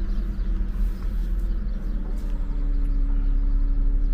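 Car running along a city street, heard from inside the cabin: a steady low engine and road rumble, with a steady hum joining about two seconds in.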